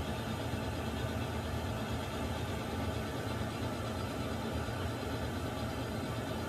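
Water heater running: a steady low rumble with an even hiss above it, unchanging throughout.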